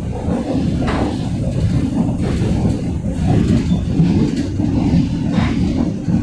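Berlin U-Bahn H95 train running, a steady low rumble of wheels on track, with a couple of short creaks, about a second in and again near the end, of the kind the title puts down to its articulation joint.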